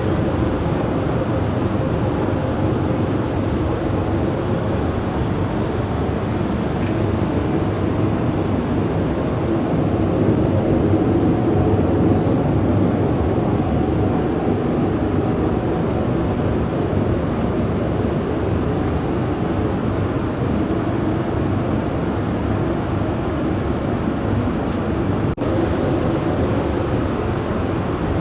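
Steady cabin noise aboard a Boeing 787-8 airliner: an even rumble of engines and airflow, broken by a very brief dip near the end.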